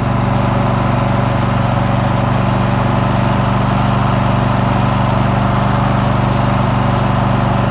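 Riding lawn mower's small engine running steadily while the mower is driven along the road.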